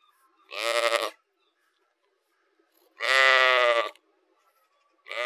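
Sheep bleating: three separate bleats, the middle one the longest and the third starting near the end.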